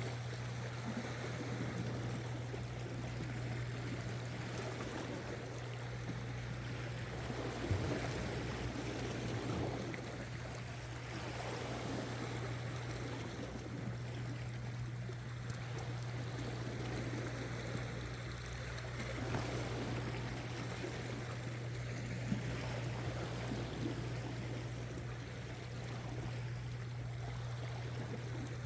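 Sea water washing and lapping against shore rocks, swelling and easing every few seconds, over a steady low hum. A couple of faint knocks stand out.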